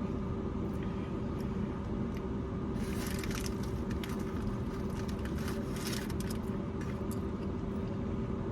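Steady low hum of a car, with a few short bursts of rustling and mouth noise from eating about three and six seconds in.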